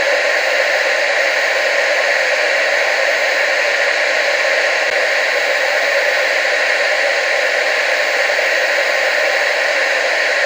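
Television static: a steady, unbroken hiss of noise, mostly in the mid and upper range with little bass.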